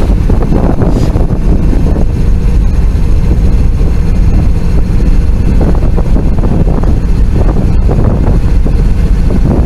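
Freight train's diesel locomotives working, a loud steady low rumble, with wind buffeting the microphone.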